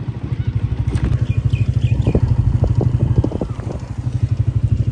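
Honda motorcycle engine running as the bike rides along a gravel road, a steady rapid pulsing exhaust beat, with a few light rattles in the middle.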